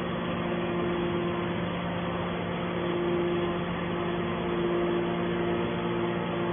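Hydraulic scrap metal baler's power unit running with a steady hum. A higher tone fades out briefly about two seconds in.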